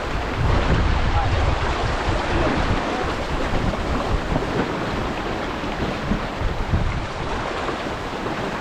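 Wind buffeting the microphone over a steady rush of water along the hull of an X-Yacht X412 racing sailboat under way.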